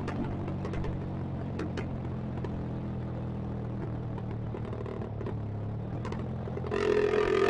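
Motorcycle engine running steadily at low revs, a low even hum. Near the end it gets suddenly louder and noisier as the bike picks up.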